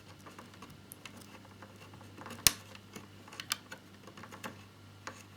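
Sparse small clicks and taps of a screwdriver and small plastic model parts being handled, with one sharper click about two and a half seconds in, over a faint steady low hum.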